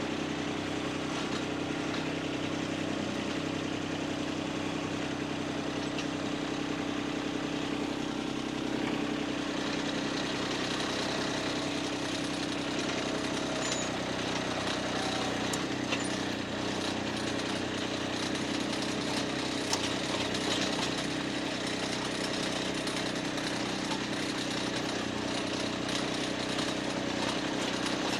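An engine idling steadily, with a few faint knocks.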